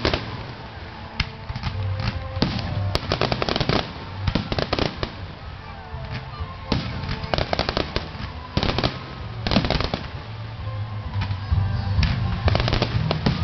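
Fireworks display going off: clusters of sharp bangs and rapid crackling in bursts every second or two, with a few whistling glides, over music playing underneath.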